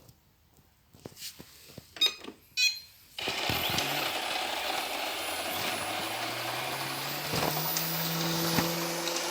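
Ilife V55 Pro robot vacuum starting up: two short beeps about two seconds in, then its suction fan and brush motors start suddenly and run steadily, the motor hum rising in pitch over the next few seconds.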